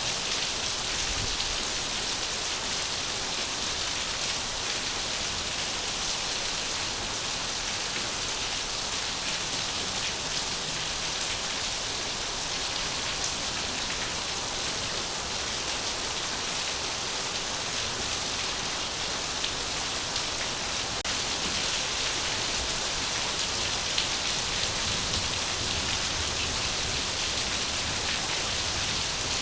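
Steady rain falling, an even hiss of water with no pauses or changes in level.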